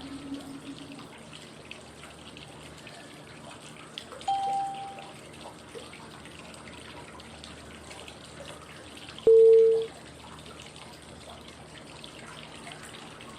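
Steady flowing-water white noise with short cue tones about every five seconds, each at its own pitch: a low tone fading out at the start, a higher one about four seconds in, and a louder mid-pitched one about nine seconds in. The tones mark the switches between the five-second inhale, hold and exhale phases of 5-5-5 breathing.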